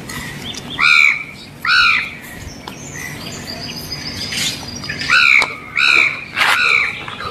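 A bird calling: five short harsh calls, each rising then falling in pitch, two about a second apart near the start and three in quick succession from about five seconds in.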